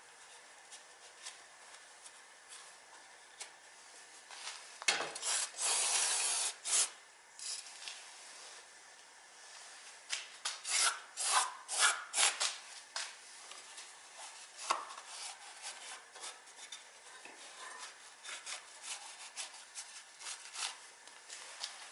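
Irregular scraping and rubbing strokes of hand work, loudest in a run about five to seven seconds in and again around ten to thirteen seconds in.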